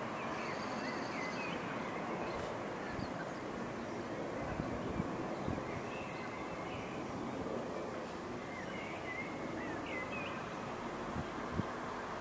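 Birds chirping now and then over a steady background noise, with a few soft thumps.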